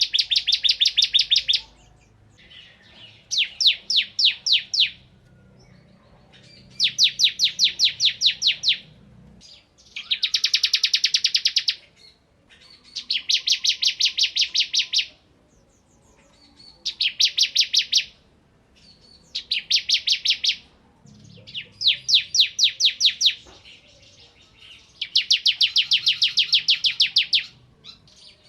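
Bar-winged prinia (ciblek) singing vigorously: repeated bursts of fast, sharp, high chirps fired off in rapid strings. There are about nine strings, each lasting a second or two, with short pauses between them.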